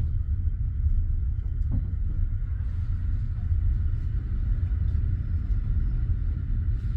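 Steady low rumble of a passenger train carriage, with a sharp knock at the start and a fainter one about two seconds in.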